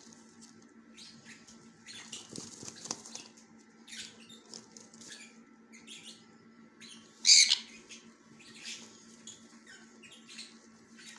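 Sun conure chicks shuffling and calling softly, with one short loud screech about seven seconds in.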